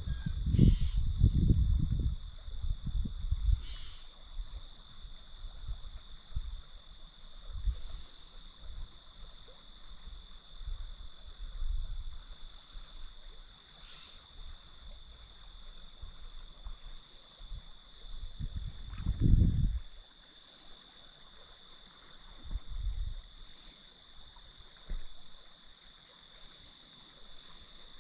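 Steady chorus of crickets trilling at two high pitches without a break, over a faint background. Low rumbles on the microphone come and go, strongest in the first three seconds and again about nineteen seconds in.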